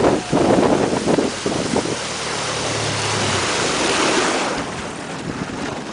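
Wind buffeting the microphone and water rushing and splashing past a small boat's hull, with the 15 hp Suzuki four-stroke outboard running low underneath; the rush eases off after about four and a half seconds.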